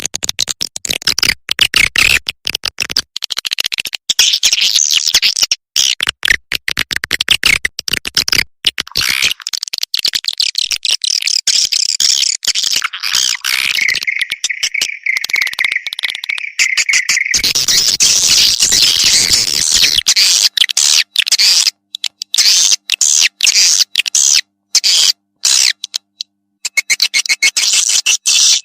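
Recorded swiftlet calls of the kind played to lure swiftlets into nest houses: dense, rapid high chirping and chittering, with a steady high tone held for a few seconds around the middle.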